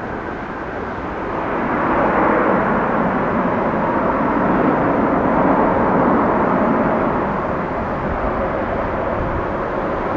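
Jet engines of a landing Boeing 787-9 airliner, a rushing rumble that swells about two seconds in, holds, then eases slightly.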